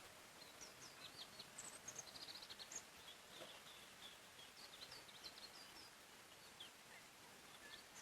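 Faint birdsong: several small birds giving short high chirps and quick whistled calls over a steady soft hiss of forest background, busiest in the first half.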